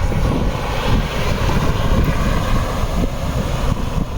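A Jeep running, with heavy wind rumbling on the microphone.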